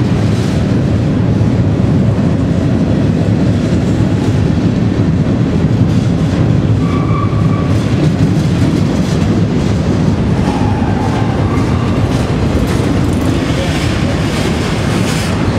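Slow, heavy freight train rolling past inside a rail tunnel: a loud, steady low rumble of wheels on rails.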